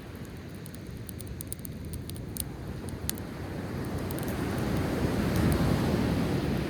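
Driftwood campfire crackling with scattered sharp pops, over the low wash of sea waves on the shore; a wave swells up and breaks about two thirds of the way in.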